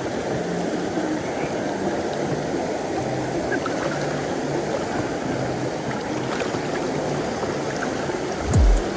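A shallow river rushing steadily over rocks. A loud low thump on the microphone comes near the end.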